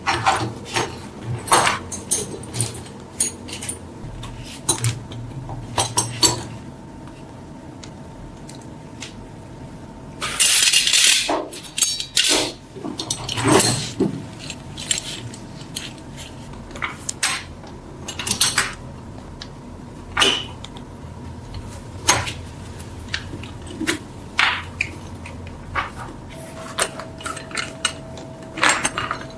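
Metal parts being handled in a workshop: scattered sharp clinks and knocks of metal on metal, with a loud, short rush of noise about ten seconds in.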